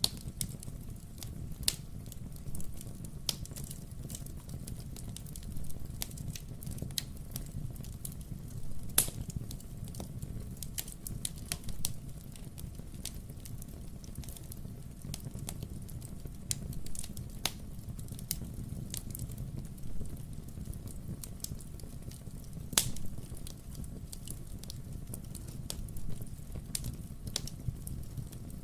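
Wood fire burning in a fireplace: a steady low rumble with frequent sharp crackles and pops from the burning logs, and louder pops about a third of the way in and again about four-fifths through.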